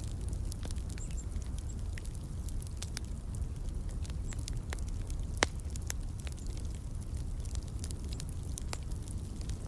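Wood fire crackling: irregular snaps and pops over a steady low rumble of flames, with one sharp pop about halfway through.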